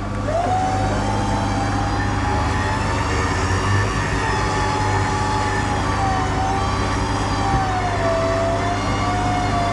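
A Jeep Gladiator's 9,000 lb electric winch is pulling hard under heavy load on a three-part line. Its motor gives a steady whine that wavers slowly up and down in pitch, over a constant low engine hum.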